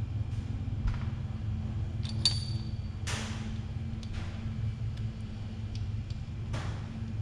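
Scattered light clicks and clinks of small steel valvetrain parts being handled during an engine teardown, with one ringing metal clink about two seconds in and a couple of short scraping swishes, over a steady low hum.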